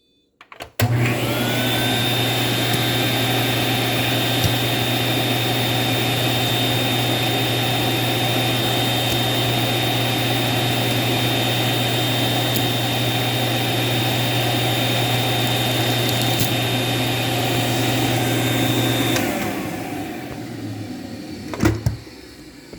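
Electrolux Model XXX canister vacuum cleaner switched on with a click. Its motor spins up with a rising whine and runs steadily, then is switched off about 19 seconds in and winds down with a falling whine. A couple of sharp knocks come near the end.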